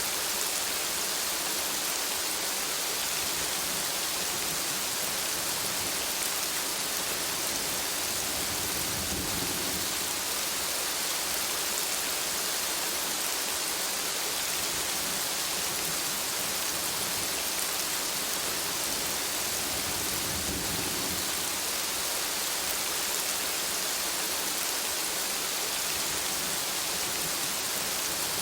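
Steady rain falling, a dense, even hiss. A low rumble swells briefly about a third of the way in and again about two-thirds in.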